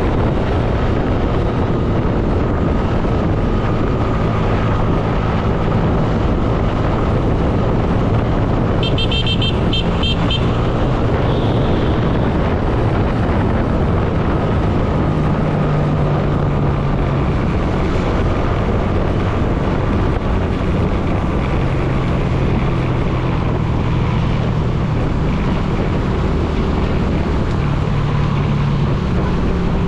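Motorcycle engine running under way, its pitch stepping up and down with the throttle, with wind rushing over the microphone and road traffic around. A short burst of high, rapid beeping comes about nine seconds in.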